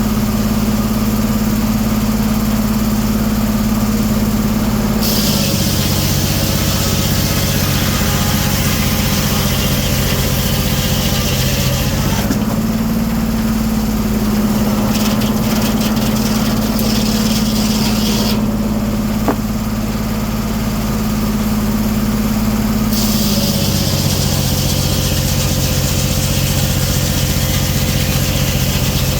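The engine driving a 1907 American sawmill's circular head saw runs steadily. Twice, about five seconds in and again near the end, the blade takes a cut through a cherry log: the engine's pitch drops under the load and a sawing hiss comes in. Between the cuts the engine runs freely at its higher pitch.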